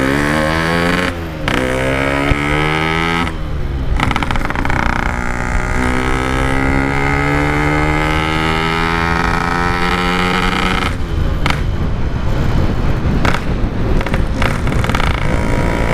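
Yamaha RX-King two-stroke single-cylinder motorcycle with an aftermarket expansion-chamber exhaust, accelerating through the gears while riding. Its pitch climbs, drops at a gear change about a second in and again near four seconds in, then rises slowly for several seconds before falling off about eleven seconds in.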